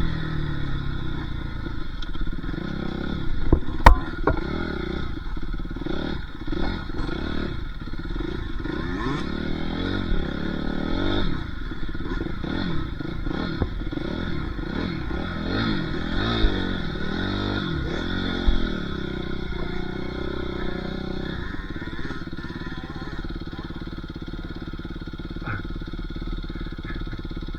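Dirt bike engine being ridden along a trail, its revs rising and falling over and over as the throttle is opened and closed, with a sharp knock about four seconds in. The engine note eases off near the end.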